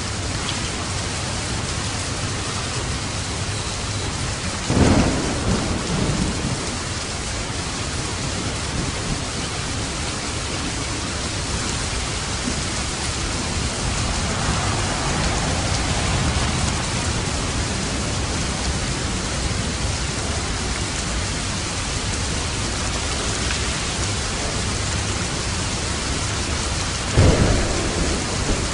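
Steady rain falling on a roof, with thunder cracking and rumbling twice: once about five seconds in and again near the end.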